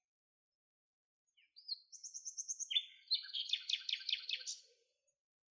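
Small bird chirping in quick high trills of rapidly repeated notes. It starts about one and a half seconds in and stops about a second before the end.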